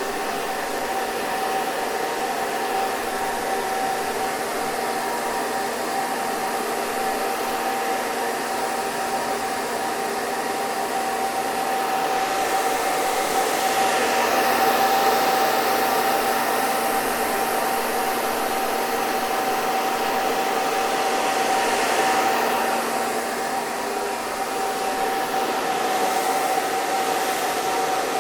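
Hair dryer running steadily, a rushing blow of air over a constant whine from its motor. The airy hiss swells slightly about halfway through and again a little later.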